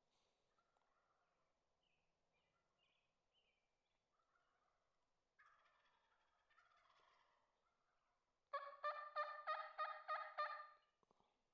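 Wild turkey gobbling once near the end: a loud, rapid rattling call about two and a half seconds long. Before it, only faint bird calls.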